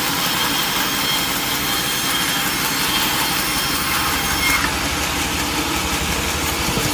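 Sawmill machinery running steadily between cuts, a constant mechanical noise. A little over halfway through, the low rumble grows stronger.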